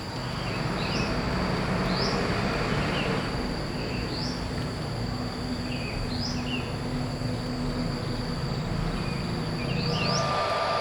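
Outdoor ambience: a steady high-pitched insect drone with short rising bird chirps about once a second, over a rushing noise and low hum that fade out near the end.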